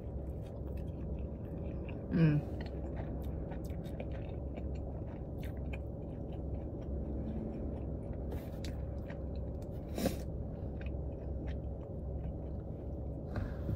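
Close-up chewing of a soft slider burger with bacon and ranch: wet mouth clicks and smacks, with a short hummed sound about two seconds in and a sharper smack about ten seconds in, over a steady low hum.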